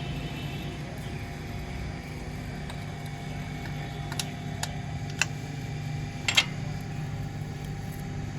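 Car engine idling steadily, with a few sharp clicks or taps about halfway through.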